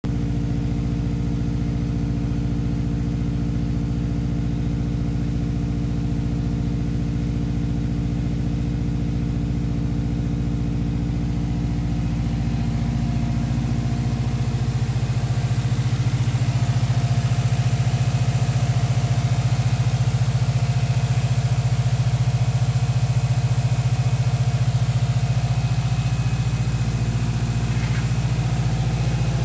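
Subaru EJ207 2.0-litre turbocharged flat-four idling steadily on its first run after installation. About halfway through, the idle note shifts and gets slightly louder, then holds steady again.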